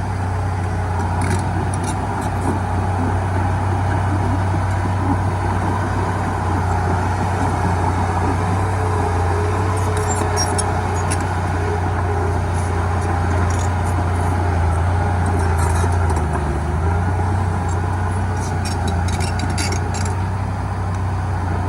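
Heavy diesel engine of earthmoving machinery running steadily with a deep hum, its pitch dipping briefly about sixteen seconds in. Faint metallic clicks come and go over it.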